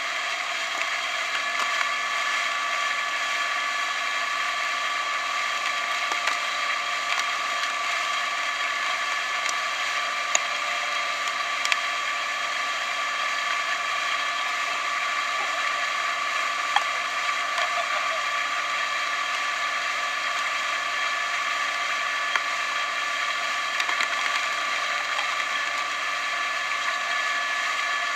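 A steady mechanical whir with several fixed tones over a hiss, broken by a few sharp clicks.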